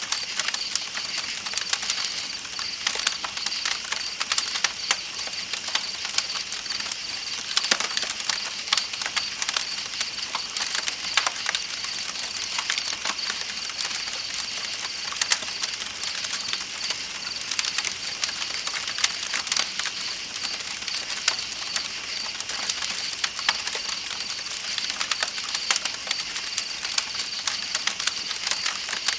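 Campfire crackling with frequent sharp pops, over a steady high chirring of night insects and the hiss of a flowing river.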